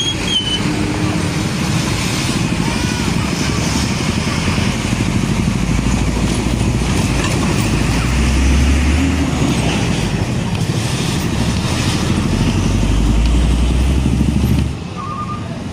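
Heavy trucks and road traffic passing close by: a steady engine and tyre rumble with a deep drone that swells about eight seconds in and again from about twelve seconds, then drops sharply near the end.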